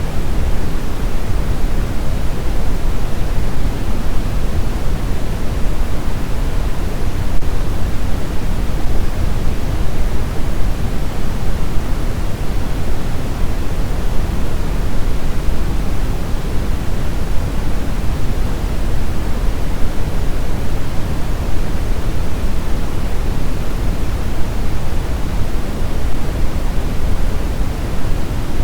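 Steady synthetic brown noise: a constant rumbling hiss weighted toward the low end, with no changes or events.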